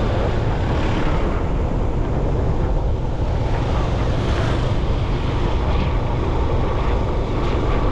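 Wind rushing over the microphone of a moving motorbike, a steady loud rush, with traffic and engine noise beneath it.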